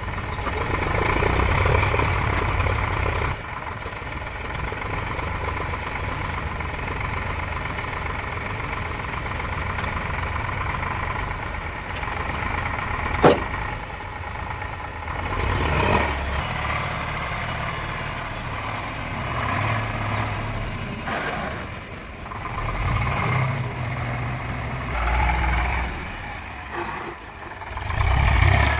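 A vehicle engine running, mostly at a steady idle with its level rising and falling at times, and one sharp click about thirteen seconds in.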